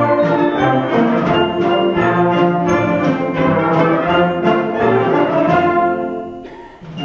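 Concert band playing a march, brass in front over a steady beat of about two strokes a second. The full playing drops away about six seconds in.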